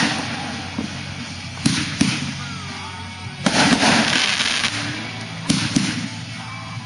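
Consumer aerial firework shells bursting, about five sharp booms spaced a second or two apart, each trailing off in a fading rumble and crackle.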